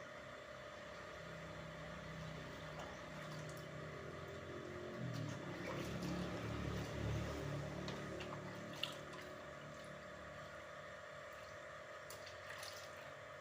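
Water splashing and trickling during fridge cleaning, swelling for a few seconds in the middle, with one sharp click about two-thirds of the way through.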